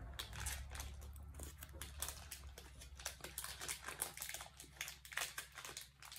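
A person chewing M&M's, the candy shells crunching in many small, irregular clicks, over a steady low hum.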